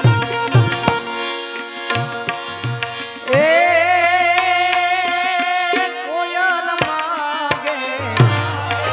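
Tabla playing over a held melodic accompaniment; about three seconds in, a singer comes in on a long, wavering held note that runs for about four seconds, and the tabla strokes pick up again near the end.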